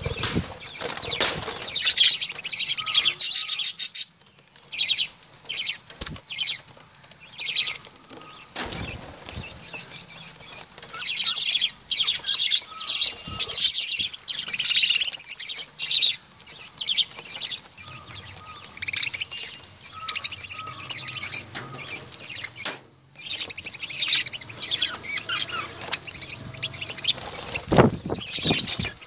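Pet lovebirds chattering in shrill, high-pitched bursts, broken by a few short pauses.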